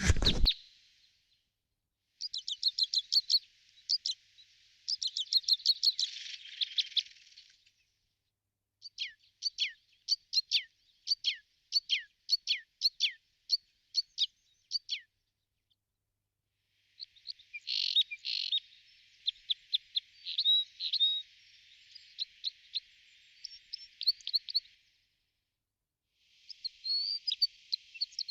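Small birds chirping in rapid series of short, high notes, in bursts a few seconds long with gaps of complete silence between them.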